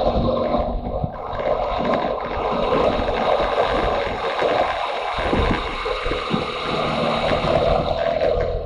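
Motorcycle engine running under way, mixed with wind buffeting on the microphone.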